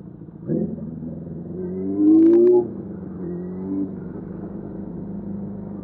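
Suzuki GSF600 Bandit's inline-four engine pulling, its pitch climbing for about two seconds and then dropping off sharply about two and a half seconds in, before settling to a steady run. Picked up through AirPods, so the sound is muffled, with nothing heard above the low-mid range.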